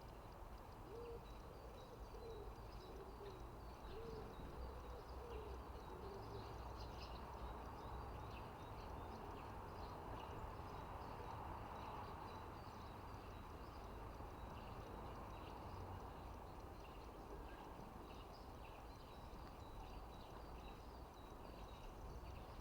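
Faint outdoor birdsong: small birds chirping throughout, with a low hooting call between about one and six seconds in, over a low background rumble.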